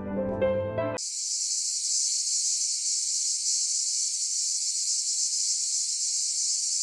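Music cuts off abruptly about a second in and is replaced by a steady, high-pitched hiss with no low sound at all under it.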